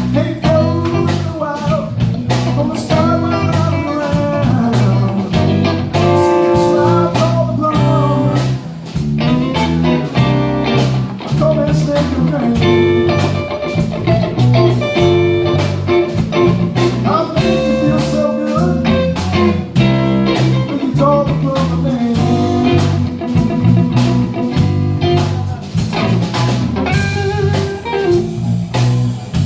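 Live blues band playing an instrumental break: a bending lead line, most likely guitar, over bass and a drum kit keeping a steady beat.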